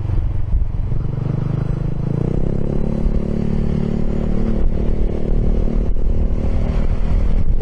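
Piaggio X10 scooter engine with an Akrapovic exhaust running under way, its pitch rising as it accelerates about two seconds in and then holding steady, over a low wind rumble on the microphone.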